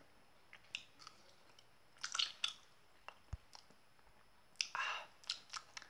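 A person chewing a soft, chewy ice cream lolly close to the microphone: small wet mouth clicks, with two louder bursts of chewing about two seconds in and near the end.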